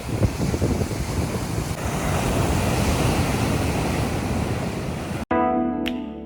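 Sea surf breaking and washing on a beach under rough conditions, with wind buffeting the microphone. About five seconds in it cuts off suddenly and music with held notes and a bright chime begins.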